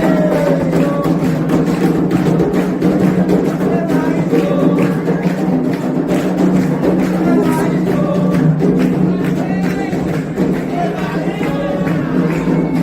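Candomblé ritual music: steady, driving atabaque drumming with voices singing together over it.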